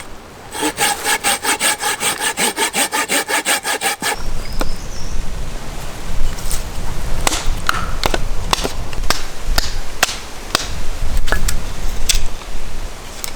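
Folding pruning saw (Silky Pocketboy) cutting wood with quick, even back-and-forth strokes, a ringing rasp, for about three and a half seconds. Then a run of sharp cracks and snaps over a low rumble.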